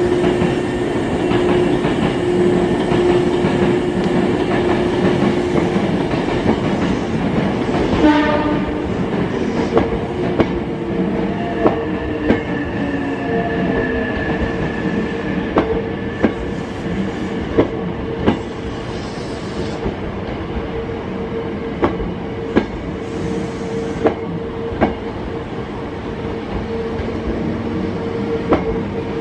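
Hankyu electric commuter train running slowly along the platform, its wheels clicking in pairs over the rail joints. A motor whine falls in pitch as the train slows. A brief pitched tone sounds about eight seconds in.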